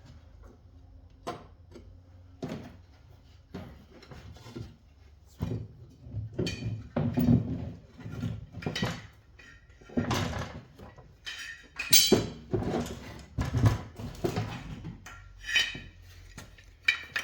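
Irregular knocks, clanks and scrapes of tools and metal parts being handled, sparse at first and louder and busier from about five seconds in.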